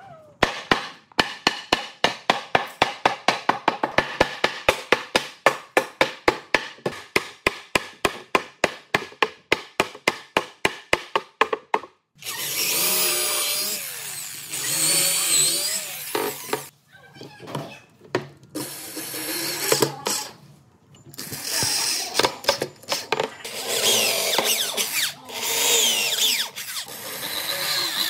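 Woodworking tools: a run of rapid, evenly spaced knocks, about four or five a second, lasts for about eleven seconds. Then a power tool runs in spells, its pitch wavering as it cuts or works the wood, with short pauses between spells.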